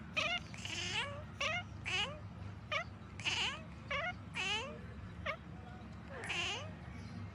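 A cat meowing over and over: about ten short mews, each rising in pitch.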